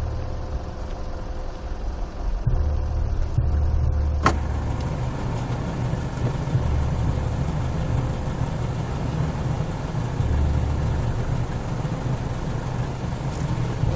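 Car engine running at idle, heard from inside the car as a low steady rumble that swells now and then, with a single sharp click about four seconds in.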